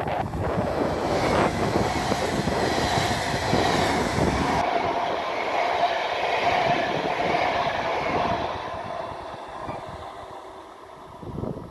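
A train passing close by, loud at first, then its noise dying away over the last few seconds as it moves off.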